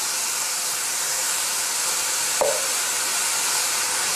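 Cubed beef sizzling in a frying pan, a steady hiss, as it is stir-fried with wooden spatulas until the red is just gone; one short knock, likely a spatula on the pan, about two and a half seconds in.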